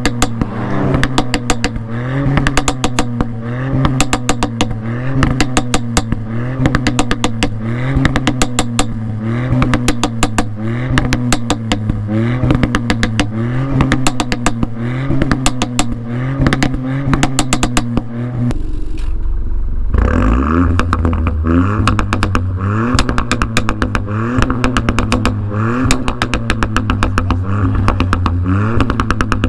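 Ford Fiesta ST Mk8's 1.5-litre turbocharged three-cylinder engine revved repeatedly through an aftermarket exhaust, the pitch rising and falling about every two seconds, with crackling through it. About two-thirds in, a different exhaust on another Fiesta ST takes over with a deeper note, again revving up and down.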